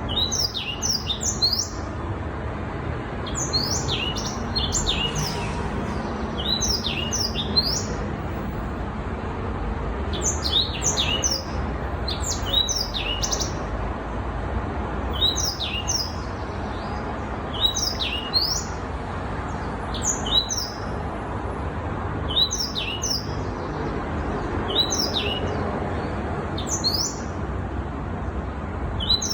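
Young black-throated canary singing: short phrases of quick, high, falling notes, repeated every couple of seconds, over a steady low background rumble.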